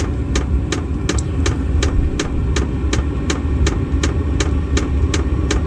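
VEVOR all-in-one diesel heater starting up: its fuel pump ticking evenly, nearly three times a second, over the steady whir of the blower and burner.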